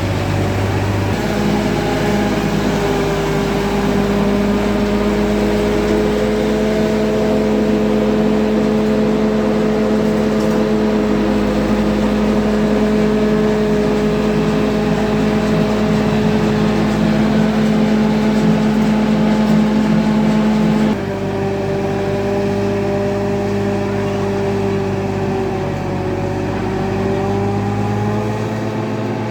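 Tractor engine driving a maize harvester, running steadily. Its note shifts suddenly about a second in and again about twenty seconds in, and it is slightly quieter after the second change.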